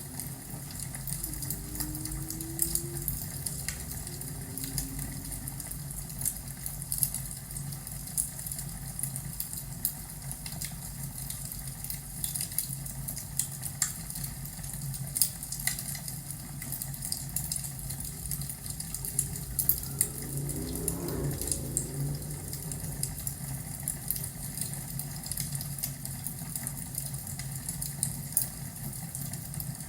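Crackling fireplace: irregular wood pops and snaps over a low steady rumble.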